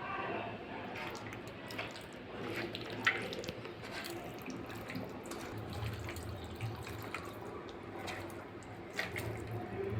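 Wet squelching of raw chicken pieces being mixed by hand with a yogurt, ginger-garlic and chilli marinade in a bowl, with scattered small clicks and knocks.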